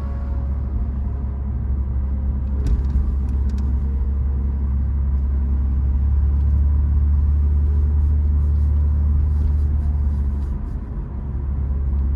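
Car driving: a steady low drone of engine and road noise, with a few sharp ticks about three seconds in.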